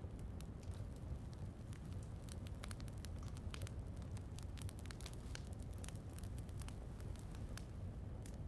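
Wood fire crackling: frequent small, irregular pops and snaps over a steady low rumble.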